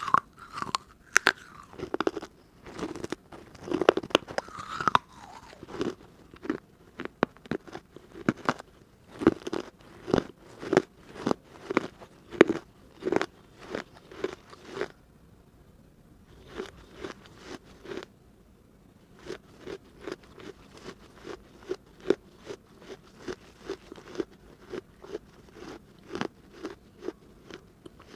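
Close-up crunching and chewing of hard baked clay pieces from an earthen diya lamp, with sharp crunches in a steady rhythm of about one to two a second. There are short pauses about halfway through.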